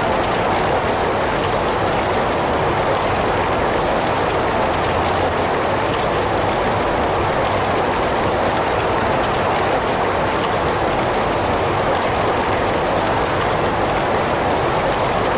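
Heavy rain falling in a dense, steady hiss that does not rise or fall.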